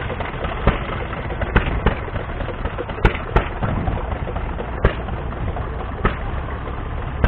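Irregular sharp pops and clicks, roughly one every second or so, over a steady low outdoor rumble.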